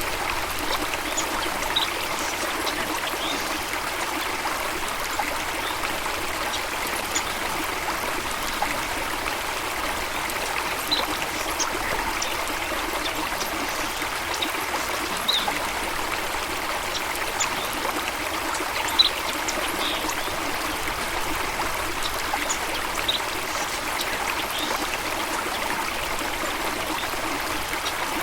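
Steady rush of flowing stream water, with short high bird chirps scattered through it and one sharper tick about two-thirds of the way through.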